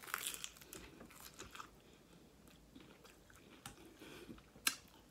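Close-up eating sounds of a hard-shell taco: a crisp crunching bite at the start, then quieter chewing with scattered crackles of the shell and one louder crunch near the end.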